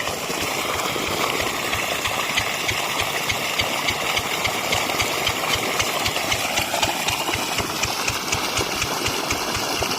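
10 hp single-cylinder diesel irrigation engine running steadily with an even, rapid chugging beat.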